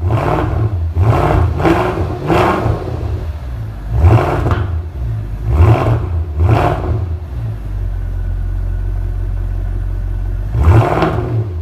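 Mercedes S63 AMG 6.2 V8 exhaust, with the middle resonator deleted and the rest stock, being blipped: a quick run of short, sharp revs over a steady idle, then settling to idle, then one more blip near the end.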